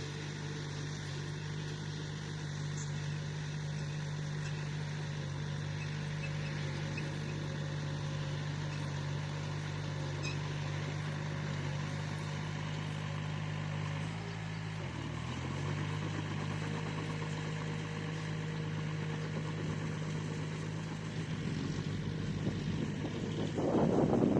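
Bulldozer's diesel engine running steadily, its pitch dipping briefly about fifteen seconds in and then recovering. Near the end a louder rough noise rises over it.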